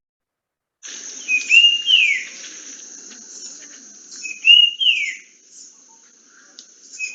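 Sri Lanka brown-capped babbler singing: a clear whistled two-note phrase, 'pretty dear', a short rising note then a longer falling slur. It comes twice, about three seconds apart, with a third phrase starting at the very end.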